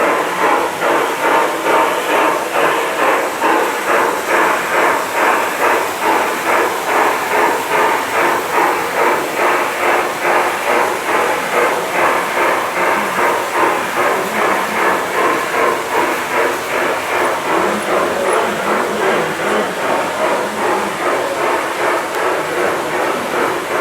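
LGB G-scale model train running on a garden railway, with an even rhythmic beat of about two a second.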